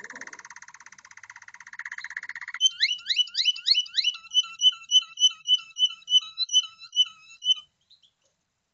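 Canary singing: a very fast trill, then a run of quick rising whistles, then a slower series of repeated chirps that stops about a second before the end.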